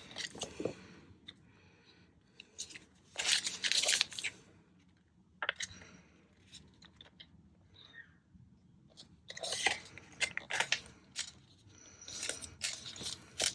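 Paper being handled, crinkling and rustling in several short bursts, with small taps in between.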